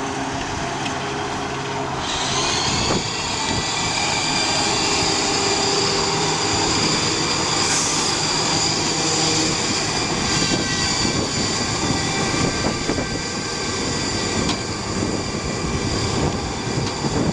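Fire truck engine running steadily with a high whine, which comes in about two seconds in and holds for the rest of the stretch.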